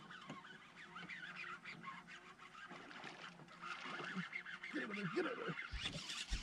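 Birds calling, many short chirping calls throughout, with a few lower calls about five seconds in.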